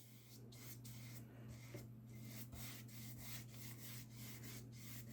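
Faint, repeated scratchy strokes of a paintbrush spreading white gouache over watercolour paper, about three strokes a second, over a steady low electrical hum.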